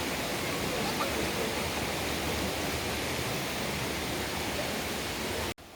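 Mountain stream rushing over rocks, a steady hiss of water that cuts off abruptly near the end, leaving a much quieter background.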